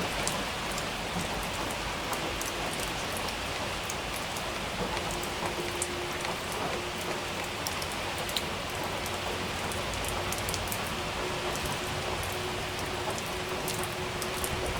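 Steady rain, with the clicks of single drops hitting a surface close by.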